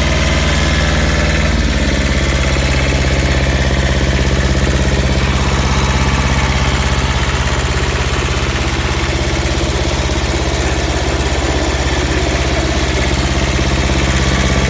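Kubota B7000 mini tractor's two-cylinder diesel engine running steadily at low speed, its pitch stepping up a little about a second and a half in.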